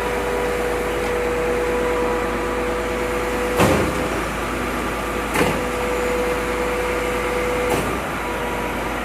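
A Volvo FM 370 truck running, with a steady whine over the engine noise. Three sharp thuds come a couple of seconds apart in the second half.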